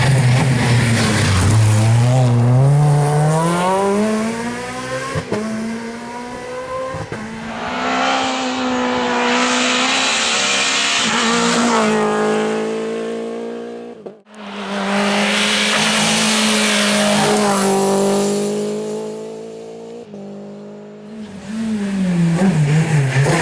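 Rally cars driven hard on a special stage, engines revving up and down through gear changes as they approach and pass, with tyre noise in the corners. The sound cuts off abruptly about two-thirds of the way in, then another car is heard.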